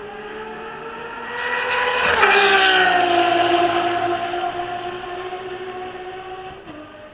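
A Ferrari race car passes at speed: its engine note rises and grows louder as it approaches, drops sharply in pitch as it goes by about two seconds in, then fades away.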